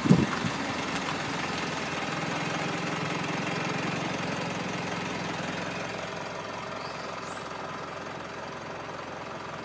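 Mitsubishi Delica D5's engine running steadily at low speed and settling toward idle, picked up by a microphone mounted outside on the body beside the front wheel. Wind buffeting on the microphone cuts off just after the start.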